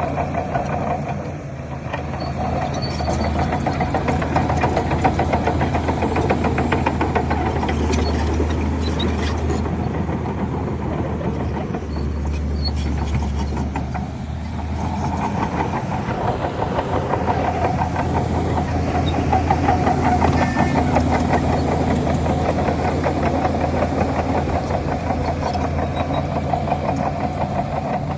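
Heavy diesel engine of a Shantui DH17 bulldozer running under load as it pushes fill, a steady low drone whose level swells and eases several times.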